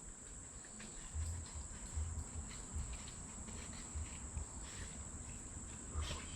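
Steady high-pitched insect chorus, with soft low bumps every second or so underneath.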